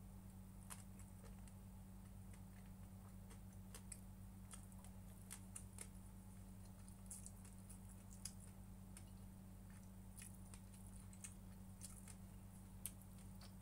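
Near silence: a steady low electrical hum with faint, scattered small clicks, typical of quiet eating noises.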